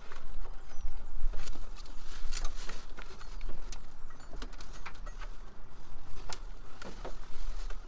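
Irregular clicks and light knocks of hand tools and parts being handled during work on a car, over a steady low rumble.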